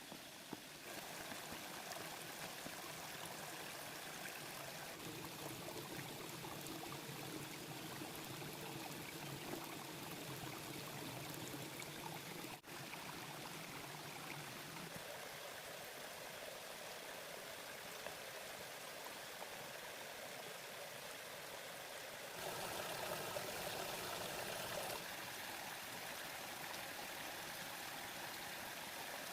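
Running water, a steady rushing hiss that shifts in tone and loudness at a few abrupt changes.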